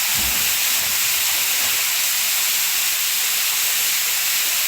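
Steady rushing of water: a loud, even hiss that holds level throughout.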